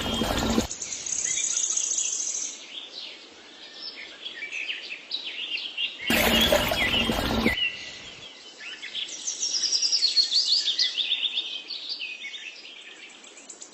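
Birds chirping and trilling in rapid, overlapping calls. About six seconds in, a loud burst of noise lasting about a second and a half covers them.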